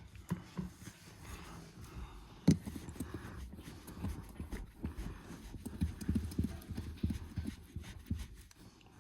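Irregular soft knocks and rubbing from scrubbing and scraping the inside of a car windshield clean, with one sharp knock about two and a half seconds in.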